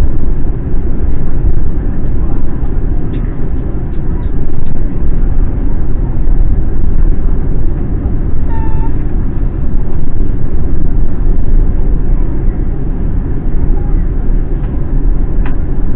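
Steady low roar of an Airbus A350 airliner's cabin in flight, engine and airflow noise, with a short pitched sound about halfway through.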